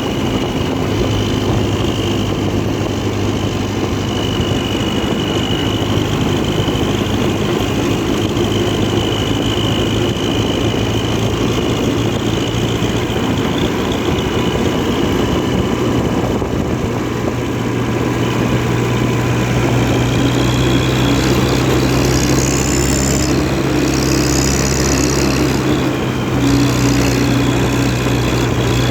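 International Harvester 444 tractor engine running steadily, growing slightly louder with a small change in pitch about two-thirds of the way through. A high-pitched sound comes and goes briefly near the end.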